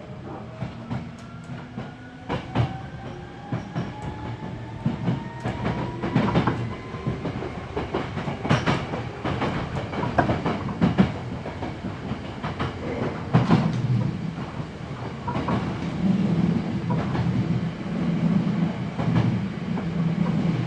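Hankyu 7300 series electric train running, heard from the floor inside the car. A whine rises in pitch through the first few seconds as the train gathers speed, over a low rumble and irregular clicks of the wheels over rail joints.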